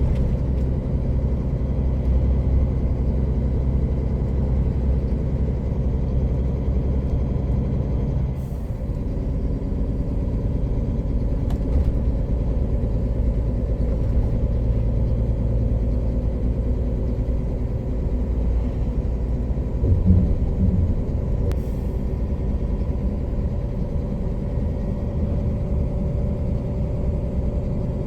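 Heavy container truck's diesel engine running steadily under way, heard from the cab. About eight seconds in the engine note drops with a short hiss of air, and another brief hiss comes near the end. A few low thumps sound about two-thirds of the way through.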